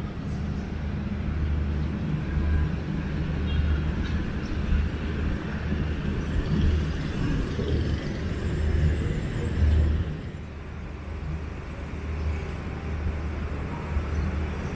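Street traffic: a steady, heavy low rumble of vehicle engines and road noise, fluctuating as vehicles pass, easing briefly about two-thirds of the way through.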